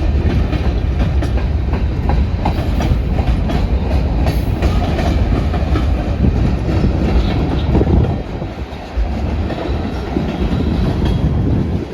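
Long CSX manifest freight train rolling past, steel wheels clacking over rail joints with a heavy rumble; the sound eases somewhat about eight seconds in.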